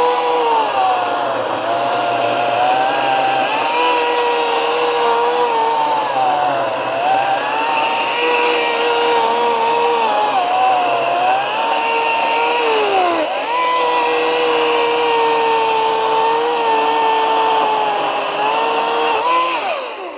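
Ryobi 40V brushless battery chainsaw cutting into a wooden stump, its electric motor whine sagging in pitch several times as the chain bogs down in the wood and then picking back up. The saw stops just before the end.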